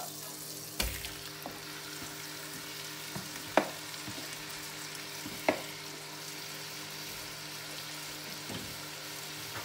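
Chicken pieces frying in melted butter in a heavy pot: a steady sizzle, with a few sharp clinks, the loudest about three and a half and five and a half seconds in.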